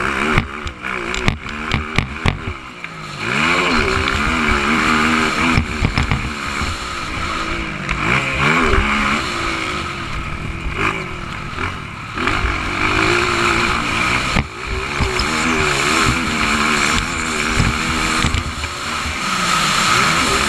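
Motocross bike engines at racing speed, their pitch climbing and dropping again and again as the riders accelerate and shift. A run of sharp knocks comes in the first couple of seconds.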